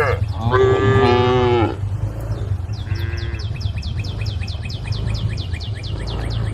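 Cows mooing: two long calls, each sliding down in pitch, the second ending about a second and a half in, then a brief faint moo. From about three seconds in, a fast, even run of short descending chirps, about five a second, runs over a steady low rumble.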